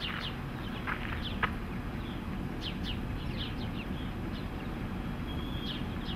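Birds chirping: a scatter of short, quick downward-sliding calls over a steady low rumble.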